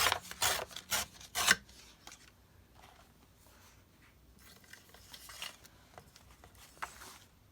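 Paper being rubbed and creased by hand: four quick rubbing strokes in the first second and a half, then softer rustling and rubbing later on.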